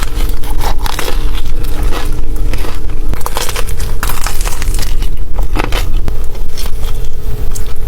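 Close-miked eating: biting into and chewing pizza, with irregular crunches and crackles over a steady low rumble.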